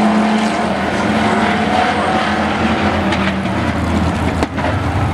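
Several pickup-truck engines running hard around a speedway oval in a race, a steady engine drone with pitches shifting as the trucks go by, and a brief drop in level about four and a half seconds in.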